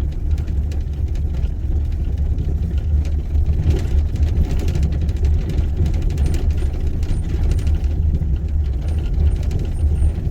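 A car or truck driving, heard from inside the cabin: a steady low engine and road rumble, with a few light knocks from the road surface.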